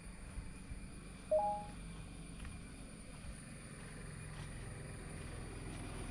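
Faint background noise with one short electronic beep, two steady tones together, about a second and a half in.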